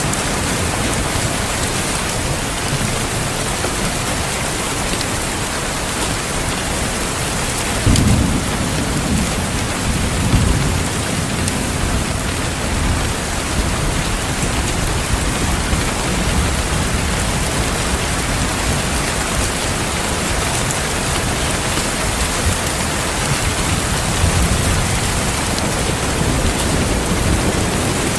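Steady heavy rain with thunder: low rolls of thunder swell about eight seconds in, again around ten seconds, and once more near the end.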